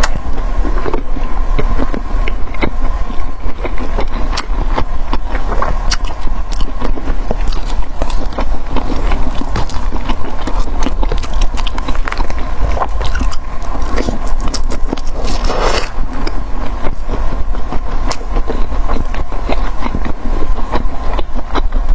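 Close-miked crunchy chewing and biting of fried food, a dense run of crackling bites and clicks with a steady low hum underneath.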